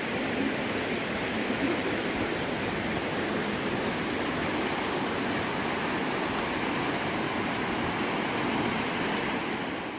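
Steady rush of flowing water, like a stream or small waterfall, with no distinct events.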